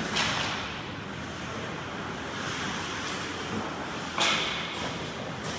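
Ice hockey play on the rink: skates scraping and carving the ice, with two louder sudden scrapes or hits, one right at the start and one about four seconds in.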